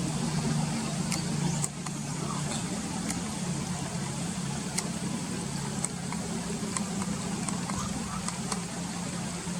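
Steady rush of flowing river water under a low, steady hum, with a few very short, high chirps scattered through.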